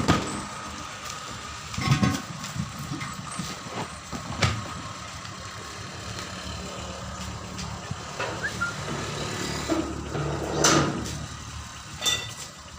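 A vehicle engine running steadily, with a handful of sharp knocks now and then.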